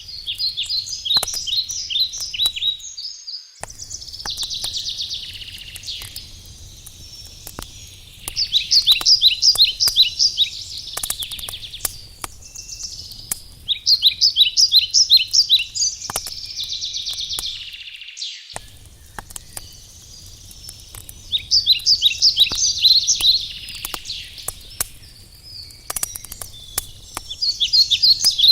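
A songbird repeats a fast, trilled phrase of high notes every four or five seconds, the loudest thing heard, over a crackling wood campfire with scattered sharp pops.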